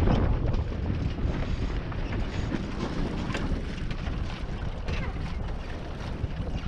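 Wind buffeting the microphone aboard a small sailboat under way, a steady low rumble with water noise from the hull and a few brief slaps.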